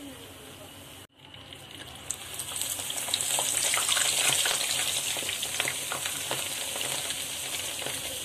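Jangiri batter of ground urad dal piped into hot peanut oil, sizzling and crackling as it fries. A faint sizzle breaks off briefly about a second in, then the frying grows louder and stays steady with many small pops.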